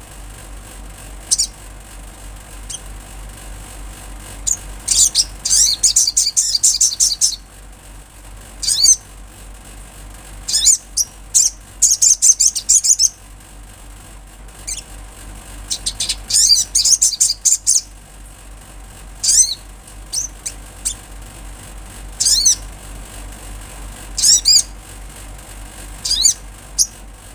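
Olive-backed sunbird singing: bursts of high, rapid twittering trills, some a second or two long, repeated every few seconds, over a steady low hum.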